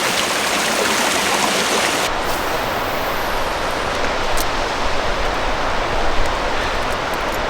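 Steady rushing of flowing stream water. About two seconds in, the sound turns deeper, losing its high hiss.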